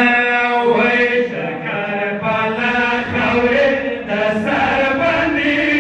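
Men chanting a noha, a Shia mourning lament, in Pashto: long, drawn-out sung lines of the lament's refrain.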